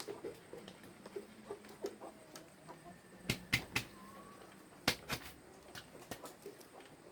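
Several sharp clicks, the loudest in two groups about three and five seconds in, over lighter scattered ticking.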